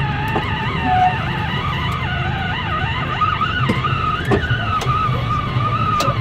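Steady engine and road rumble inside a moving car, with a wavering melody from the car radio playing over it.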